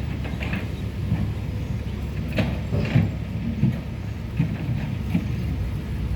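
Heavy diesel engine running steadily, with a few short knocks and clanks over it.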